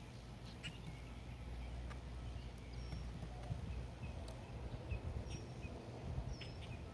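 Small songbirds giving short, faint chirps at the feeder, with scattered light taps and clicks, over a low steady background rumble.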